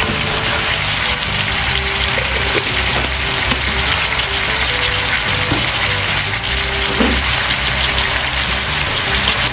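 Zucchini and other vegetables sizzling steadily as they sauté in oil and garlic margarine in a pan, with background music playing.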